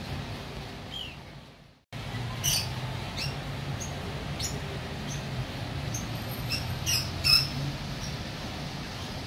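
Short, high bird chirps scattered over a steady low background hum; the sound fades out and cuts back in about two seconds in.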